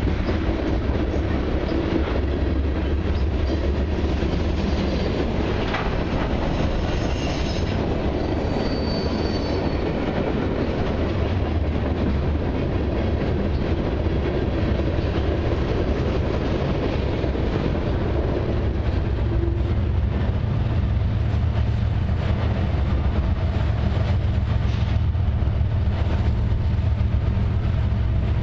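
Freight cars of a long mixed train (covered hoppers, boxcars and autoracks) rolling past close by: a steady rumble of steel wheels on rail that does not let up.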